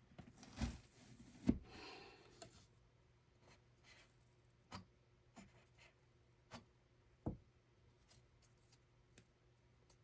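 Quiet handwork at a hand loom: a short rustle of thread near the start with two soft thumps, then scattered light taps and clicks.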